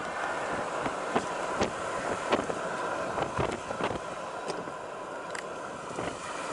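A steady motor drone with a faint steady tone, broken by many irregular sharp clicks and ticks.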